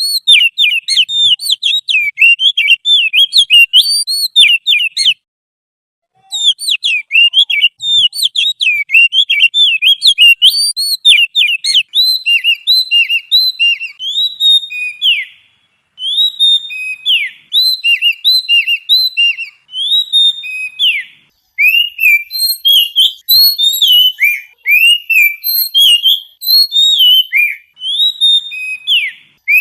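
A songbird singing fast runs of high whistled chirps and slurred notes, in phrases broken by short pauses. The later phrases have more downward-sliding notes.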